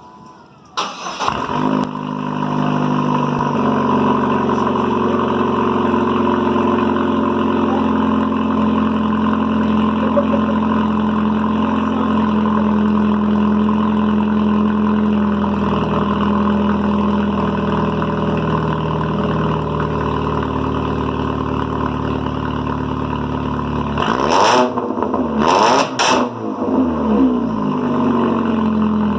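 GMC Sonoma 2.2 L inline-four with a straight-piped exhaust (no muffler) starting about a second in, then idling steadily. Near the end it is revved in about three quick blips, then drops back to idle.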